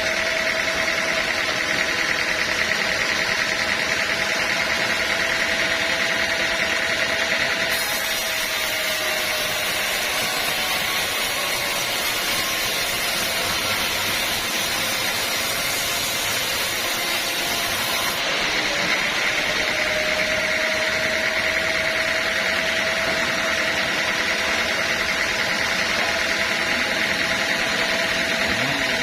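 Band sawmill running with a steady mechanical whine, which fades for about ten seconds in the middle and then comes back.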